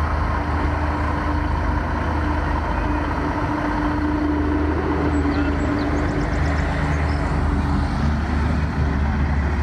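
A heavy engine running steadily, a deep, even drone that holds the same pitch throughout.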